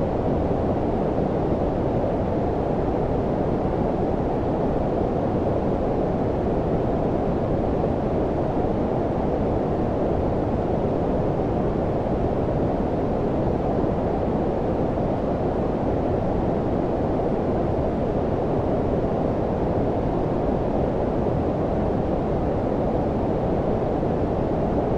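Steady low-frequency white noise: a low, dull hiss with nearly all its weight below about 1 kHz and little treble. It holds constant throughout.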